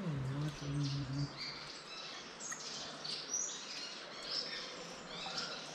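Small birds chirping: many short, high, falling calls, repeated throughout. A brief low hummed voice sounds in the first second.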